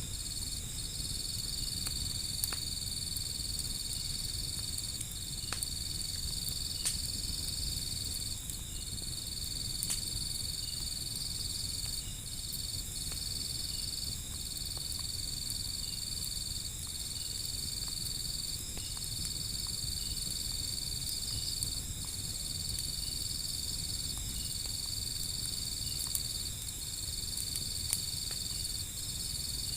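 Insects trilling in one steady high-pitched drone that breaks off briefly every second or two. A few faint sharp crackles from a wood fire and a low rumble sit under it.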